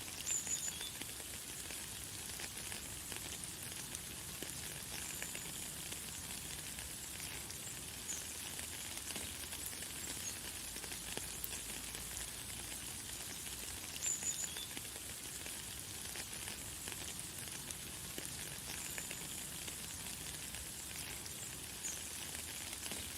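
Light, fine rain falling as a steady high hiss, with short high bird chirps every few seconds, the clearest about half a second in and again around fourteen seconds.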